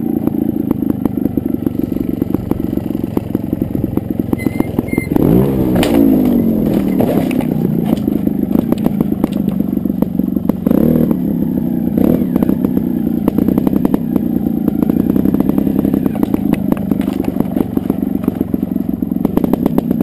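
Trials motorcycle engine running at low revs over rocky ground, with a sharp throttle blip about five seconds in and another near eleven seconds, the revs rising and falling each time.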